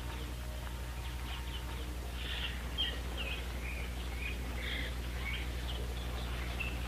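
Birds chirping in short, scattered calls and quick pitch glides, starting about two seconds in, over a steady low hum in the old soundtrack.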